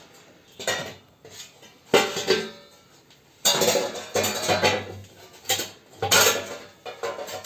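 Irregular clattering knocks and clinks from flue pipe sections being handled and fitted together in a chimney, coming in several loud clusters.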